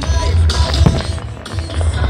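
Music playing loudly with firework bangs over it, the sharpest bang a little under a second in.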